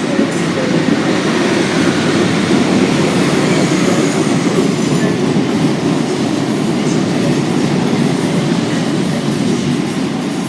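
A train running along the platform close by: a loud, steady rumble of wheels on rails. A faint falling whine comes through about three seconds in.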